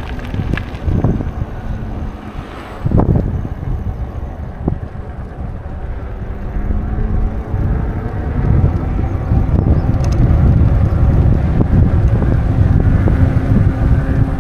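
Wind buffeting the microphone of a camera on a moving bicycle: a steady low rumble with a few sharp gusts or bumps in the first three seconds, growing louder from about eight seconds in.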